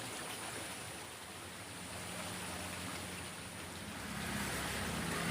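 Steady hiss of water. A low engine hum comes in and grows louder in the second half.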